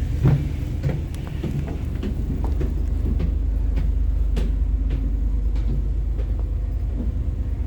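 A tour boat's engines rumbling steadily, with scattered short knocks and clicks over the rumble.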